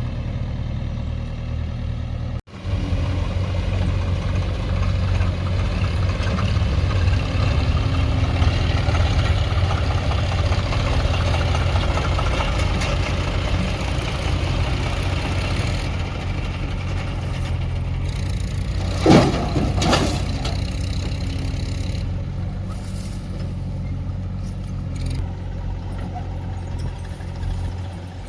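Diesel engines of a backhoe loader and tractor running steadily while mud is loaded, a low drone that cuts out for an instant about two and a half seconds in and comes back louder. Two loud knocks about a second apart come near the two-thirds mark.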